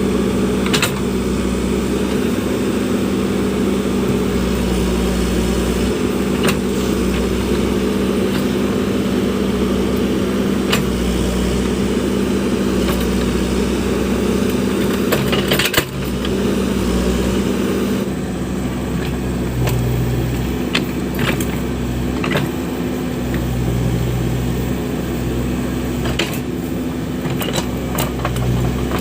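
Backhoe loader's diesel engine running steadily at working revs, with occasional short knocks. The engine note shifts about eighteen seconds in, as a lower tone comes and goes.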